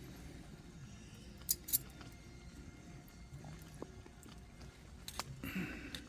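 Cooking utensils clinking: two sharp clinks about a quarter second apart, and another sharp clink near the end, over low background noise.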